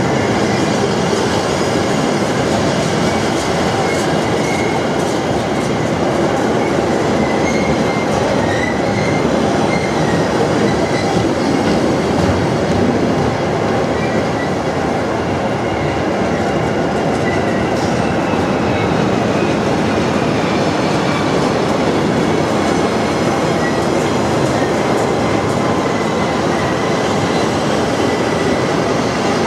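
Double-deck car-carrier freight wagons rolling past at speed: a steady wheel-on-rail rumble, with faint wavering high squeal from the wheels.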